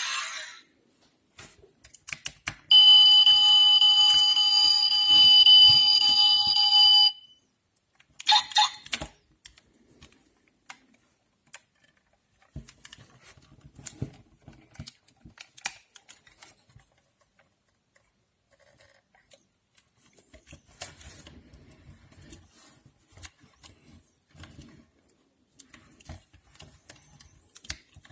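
A loud steady electronic alarm-like tone held for about four seconds, followed by scattered faint clicks and knocks.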